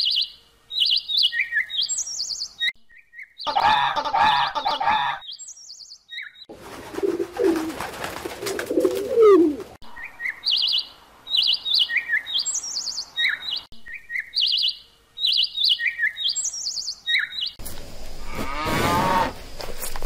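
Small bird chirping in quick, short, high notes in repeated runs, the recording changing abruptly several times. Near the end a lower, louder animal call with stacked rising tones begins.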